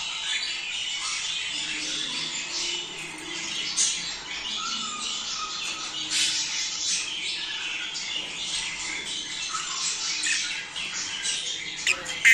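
A flock of budgerigars chattering and warbling without a break, many chirps and squawks overlapping, with a few louder, sharper calls near the end.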